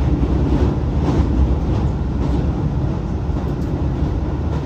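Hankyu 2300 series electric train running, a steady low rumble of wheels on the rails with faint light clicks.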